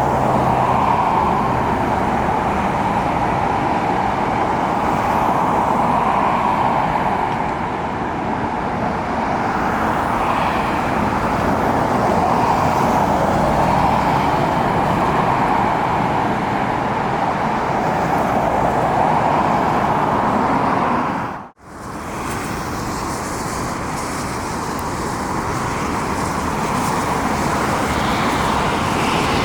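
Steady jet airliner engine noise, slowly swelling and easing. It cuts off abruptly about two-thirds of the way through and then resumes slightly quieter.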